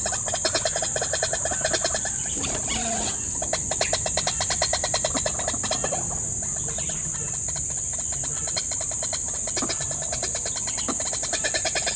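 Rapid, evenly pulsed animal calls, about eight pulses a second, over a steady high-pitched insect drone: the chorus of a swamp. The pulsing breaks off briefly about three seconds in.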